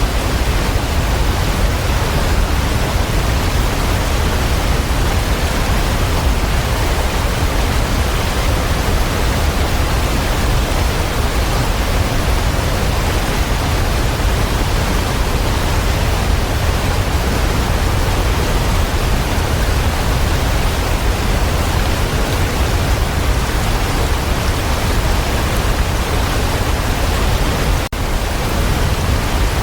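Waterfall rushing steadily, a dense deep rumble of falling water, with a momentary dropout near the end.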